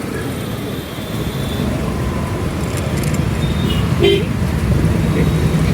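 Road traffic and wind rumble heard from a moving scooter, with short horn toots from other vehicles. The clearest toot comes about four seconds in.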